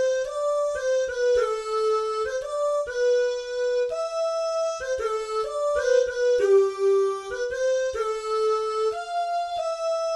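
Omnisphere software synthesizer preset playing a melody of held, overlapping notes, several sounding together as chords and changing every half second to a second and a half.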